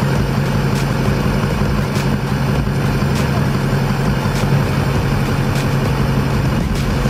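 Engine idling steadily close by, a constant low hum with a faint tick about once a second.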